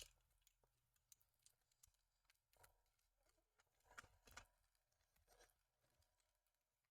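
Near silence with faint, scattered clicks and rustles of small parts being handled, a few slightly louder around four seconds in, as a packet of small black screws for a model kit is opened.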